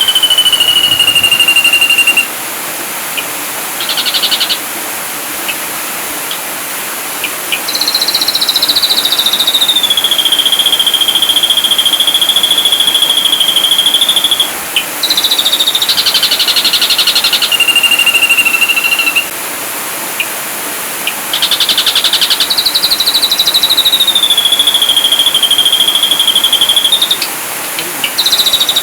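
Ashy drongo song: long, steady whistled notes, some gliding slightly downward, alternating with bursts of rapid buzzy trills, three of them, with short gaps between phrases.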